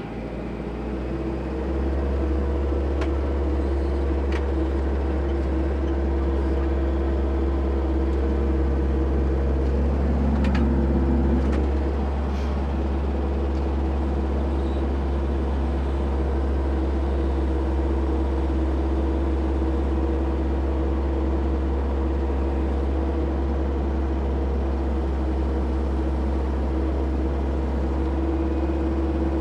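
Engine of a machine on the recovery job rising to speed over the first two seconds, then running steadily at high revs. It gets briefly louder about ten seconds in, and a few light clicks sound over it.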